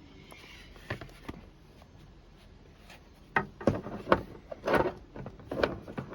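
Hard 3D-printed plastic helmet pieces being handled and knocked together: a couple of light taps about a second in, then a run of sharper clacks and clatters over the second half.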